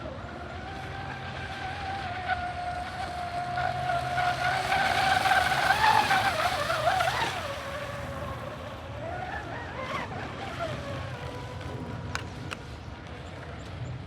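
Radio-controlled boat's electric motor whining as it runs on the water, its pitch wavering and rising and falling with the throttle; it is loudest about halfway through, then drops lower and climbs again.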